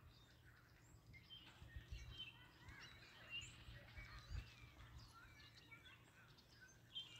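Faint, scattered chirps and calls of several small birds, over a low rumble that swells now and then.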